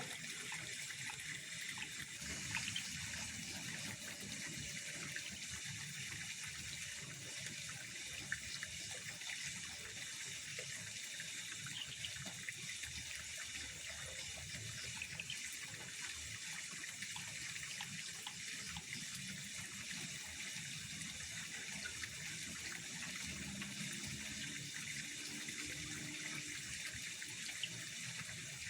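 Steady trickling of pond water, an even, unbroken wash of sound with a few faint ticks scattered through it.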